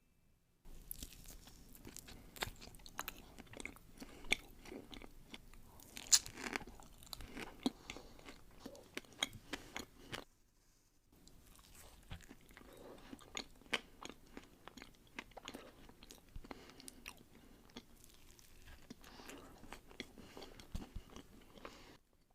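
A person chewing and crunching a pastry close to the microphone, with many irregular sharp crackles. The crunching stops for about a second around ten seconds in, then resumes.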